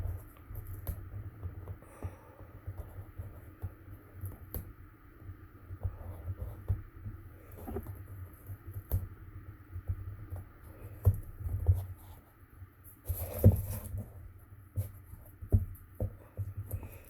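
Hands working masking tape onto a cardboard cracker box: scattered light taps and rustles, with a longer, louder rustle about 13 seconds in.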